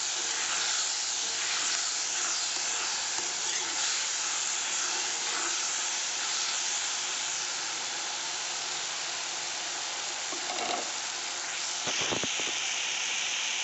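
Onions and ginger-garlic-chilli paste with turmeric and salt sizzling steadily in hot oil in a kadai as a spatula stirs them. A brief knock comes about twelve seconds in.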